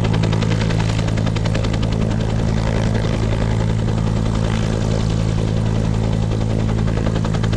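Bell UH-1 Huey helicopter running: the turbine's steady hum under the fast, even beat of its two-blade main rotor.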